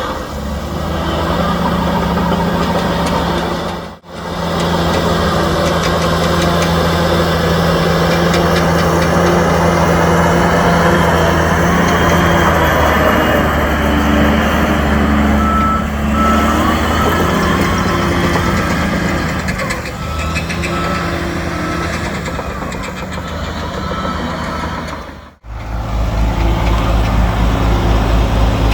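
Heavy diesel engines of a bulldozer and dump trucks running, with a reversing alarm beeping in evenly spaced beeps near the start and again about halfway. The sound drops out sharply for an instant twice, about four seconds in and near the end.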